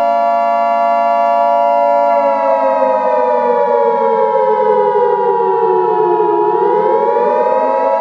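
Emergency Alert System attention signal, a steady high two-note tone, laid over a warning siren. The siren's pitch slowly falls from about two seconds in and rises again from about six and a half seconds.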